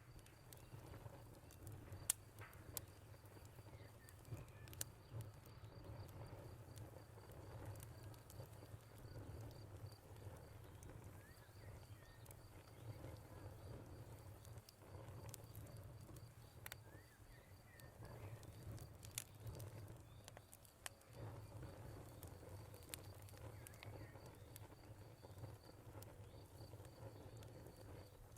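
Wood fire crackling: irregular sharp pops and snaps over a low steady rumble, with one louder pop about two seconds in.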